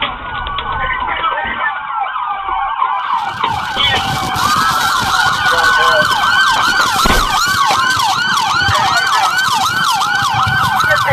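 Several police car sirens sounding at once, mostly in a fast yelp with a slower rising-and-falling wail among them, loud and overlapping; they grow louder about four seconds in.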